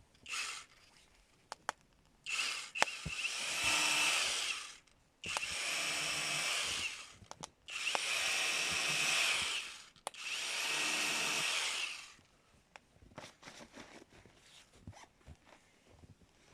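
Power drill running in four steady bursts of about two seconds each, with short pauses between them and a brief burst just after the start. Small knocks and clicks come in the pauses.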